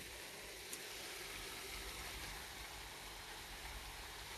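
Pork pieces with onion and garlic sizzling steadily in hot oil in a wok over a gas flame.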